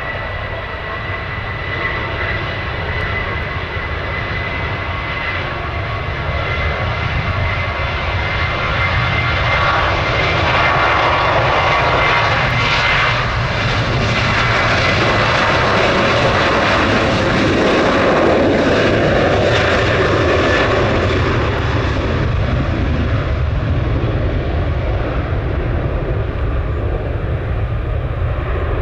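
Jet airliner flying past, its engines' steady noise and high whine building to a peak about two-thirds of the way through, then easing off. Wind rumbles on the microphone underneath.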